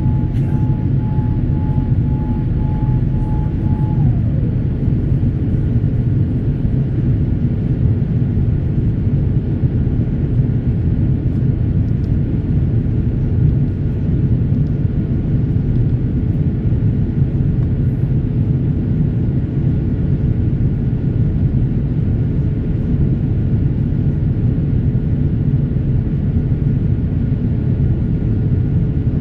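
Boeing 787 Dreamliner jet engines running, a loud steady rumble with a whine that drops to a lower pitch about four seconds in.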